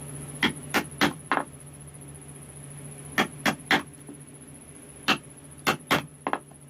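Short, sharp knocks of a carving chisel being struck into wood, about eleven in irregular groups of two to four, over a steady low hum.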